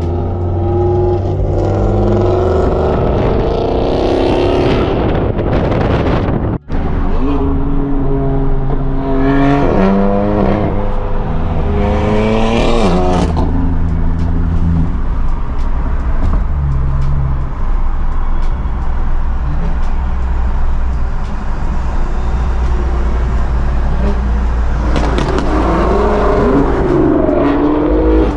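Loud performance-car exhausts revving and accelerating away, the engine pitch rising and falling several times over a steady low rumble.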